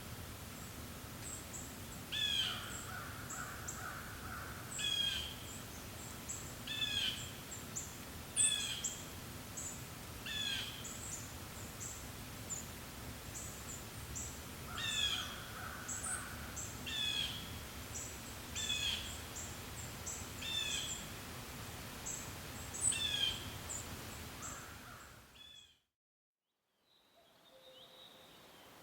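Forest birds: one bird gives a short call again and again, about every two seconds, over faint high chirps from other small birds and a steady low breeze. Near the end the whole soundscape fades out, and a quieter, different bird chorus fades in.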